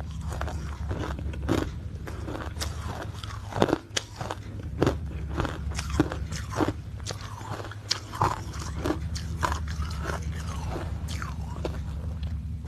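A person biting and chewing ice, with irregular sharp crunches close to the microphone over a steady low hum.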